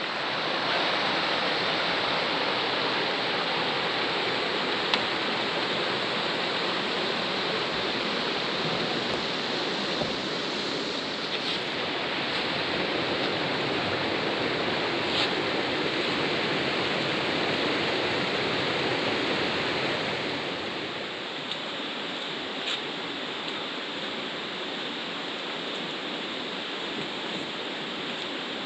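A river's running water rushing over rocks, a steady wash of noise that drops somewhat in level about two-thirds of the way through, with a few faint sharp ticks.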